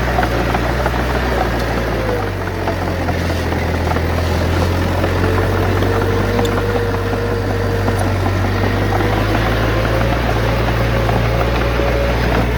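Bulldozer's heavy diesel engine running steadily under work, with a deep hum that shifts slightly in pitch about two seconds in.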